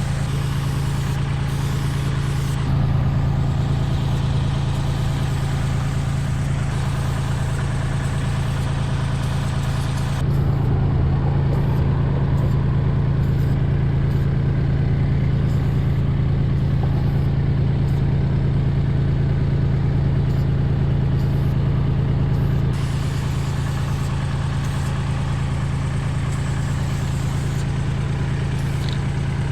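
An engine running steadily at idle, a constant low hum. About ten seconds in it gets slightly louder while the high hiss drops away, then both return to the earlier state at about twenty-three seconds.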